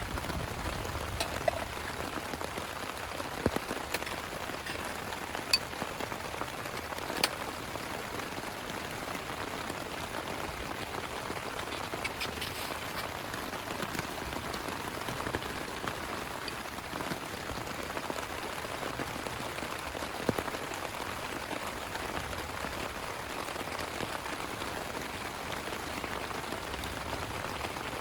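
Heavy rain falling steadily, with a few louder single drops striking close by, several in the first seven seconds and one about two-thirds of the way through.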